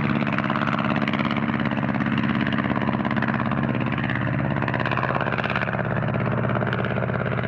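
Blériot single-propeller monoplane's engine and propeller running steadily at high power during take-off.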